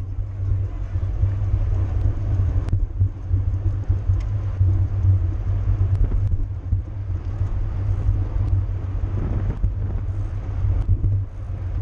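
Low, steady wind rumble on the microphone with road noise from a racing bicycle in motion, with a few faint clicks.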